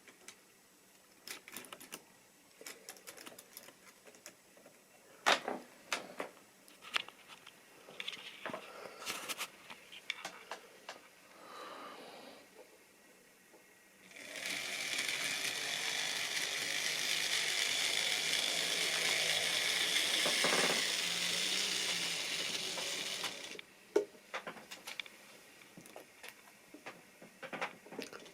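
Model railway train running on the track. Scattered clicks and ticks of its wheels on the rails come first. About halfway through, a louder, steady whirring rattle of the motor and wheels runs for about nine seconds, then cuts back to occasional clicks.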